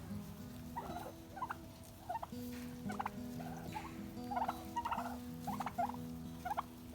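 Turkeys gobbling, many short rattling gobbles one after another.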